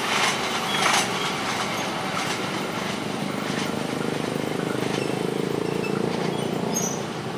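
Passenger train running past on the track: wheels clack over rail joints twice in the first second, then settle into a steady rumble, easing off near the end with faint high wheel squeals.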